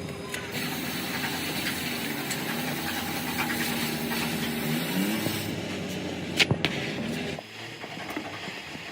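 A motor vehicle's engine running with a steady hum, a short rising whine about five seconds in, and a few sharp clicks; it cuts off abruptly near the end.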